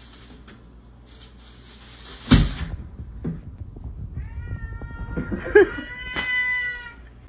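A domestic cat gives one long, drawn-out yowling meow of about three seconds, held at a steady pitch. About two seconds earlier there is a loud thump.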